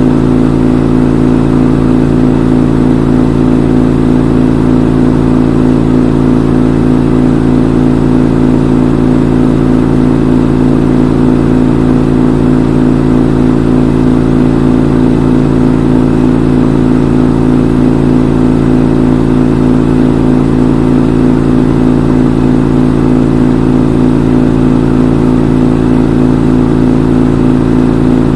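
Front-loading washing machine in its spin cycle, the drum spinning steadily with an even, unchanging hum.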